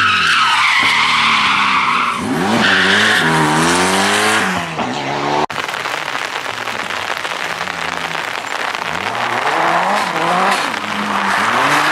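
Group B rally car engines revving hard, the pitch climbing and dropping again and again with throttle and gear changes, over tyre and gravel noise. An abrupt cut a little before halfway switches to another car.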